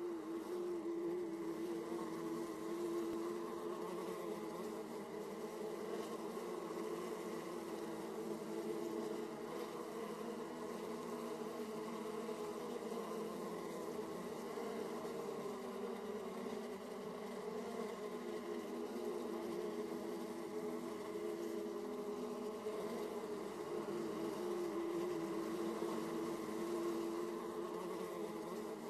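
Many honey bees buzzing at a hive entrance, a steady dense hum of wingbeats that wavers slightly in pitch as bees come and go.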